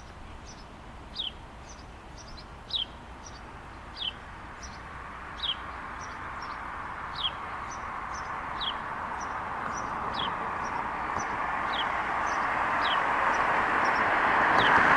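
A bird repeating a short, downward-sliding call about every one and a half seconds, with fainter higher notes between. Behind it, a rushing noise of an approaching vehicle grows steadily louder toward the end.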